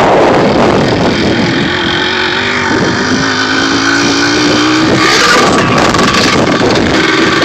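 Dirt bike engine running while being ridden, its pitch climbing steadily as it accelerates from about three seconds in.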